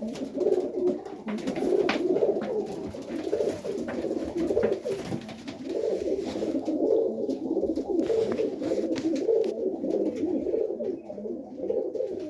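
Several highflyer pigeons cooing together in a loft, their low coos overlapping without a break.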